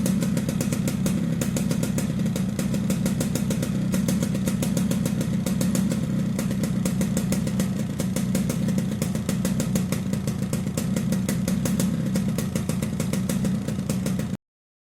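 Yamaha RX-King's two-stroke single-cylinder engine running steadily through a 'ngorok' (snoring) air filter, which gives the intake a raspy, fast-pulsing growl. The sound cuts off suddenly near the end.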